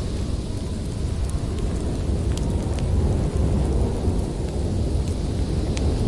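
Storm wind blowing as a steady low rumble, with scattered small crackles of a wood fire burning in a fireplace.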